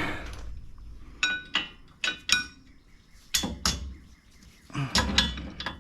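Metal hand tools and brake parts clinking: about six short, ringing metallic clinks in two clusters, then some handling noise near the end, while a bleed fitting on a rear brake caliper is being loosened.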